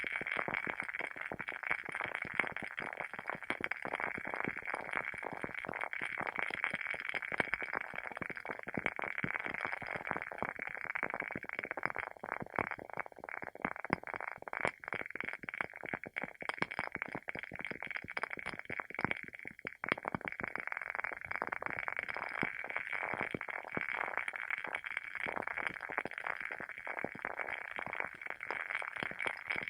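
Wooden-wick candle burning with a continuous crackle of rapid, irregular small pops.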